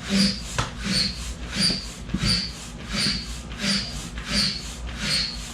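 Large hand pump inflating an inflatable kayak's air tube: a rush of air with each stroke, about eight strokes at an even pace of roughly one every 0.7 seconds.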